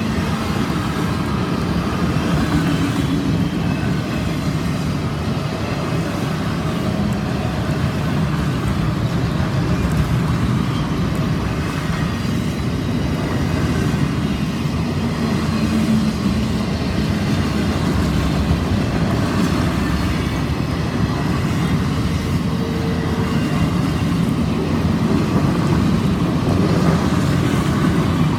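Loaded autorack freight cars rolling past, a steady rumble of steel wheels on rail.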